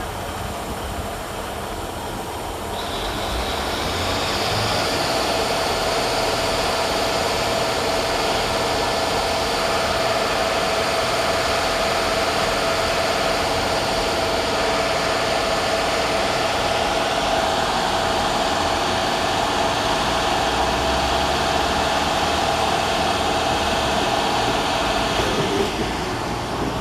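Northern Class 195 diesel multiple unit pulling away from the platform. Its engine note builds about three seconds in, then runs steadily under power with a steady whine, easing off near the end.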